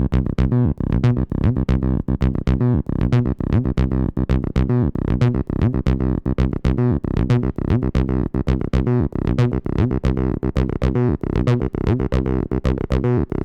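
Behringer TD-3 analogue bass synthesizer playing a fast, repeating sequenced bassline, about four or more notes a second.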